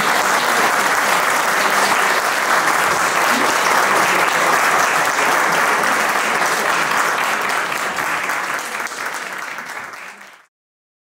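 Audience applauding steadily, fading out near the end and then cutting to silence.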